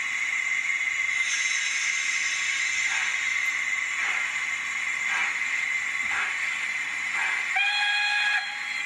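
DCC sound decoder of an Accurascale J68 0-6-0T model steam tank locomotive playing a steady steam hiss with slow exhaust chuffs about once a second, then a short whistle blast near the end.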